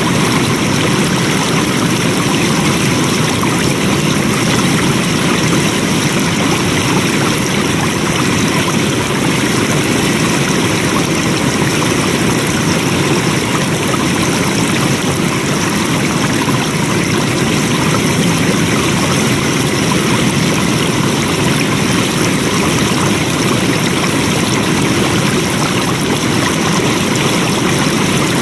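Water flowing steadily in a stream or cascade, an unbroken rushing with no changes.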